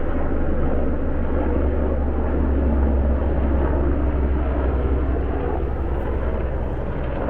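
Helicopter flying over, its rotor and engine making a steady loud rumble that swells about halfway through and eases off slightly toward the end.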